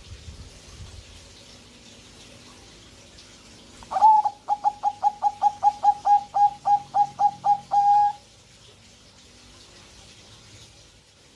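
Zebra dove (perkutut) cooing: a quick run of about fifteen short staccato coos, about four a second, ending in a longer held note. It starts about four seconds in and lasts about four seconds. This is the song of a bird in breeding condition.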